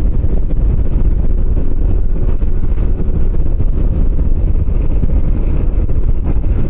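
Wind buffeting the microphone of a moving motorcycle, with its engine running underneath at a steady road speed.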